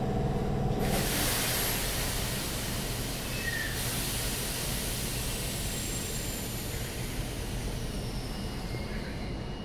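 Running noise inside a Keikyu 1500-series electric train car with Mitsubishi IGBT-VVVF control. The motor hum stops about a second in and a loud hiss rushes in for a few seconds. After that a steady rush of wheels on rail eases slightly, with faint high tones gliding down.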